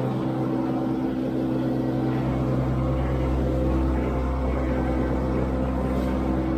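Mini skid steer engine running steadily at working speed, its low drone growing a little stronger about two seconds in.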